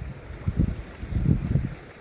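Strong wind buffeting the microphone: an uneven low rumble in gusts, strongest a little past halfway and easing off at the end.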